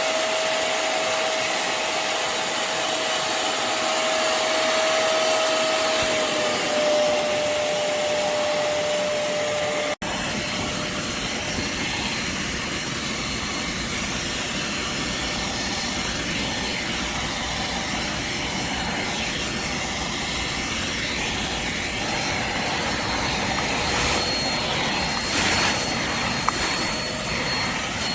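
Hoover CleanSlate Plus FH14050 portable carpet and upholstery spot cleaner's motor running steadily, with a steady whine over the noise. About ten seconds in the sound drops out for an instant, then the running continues with more low rumble and a faint high whine.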